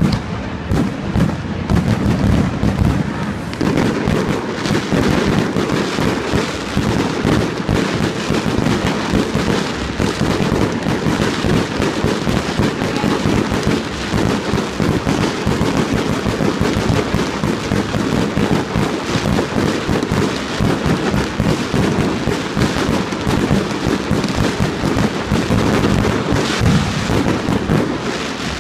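Fireworks display at full intensity: a fast, unbroken barrage of shell bursts and bangs with no pauses between them.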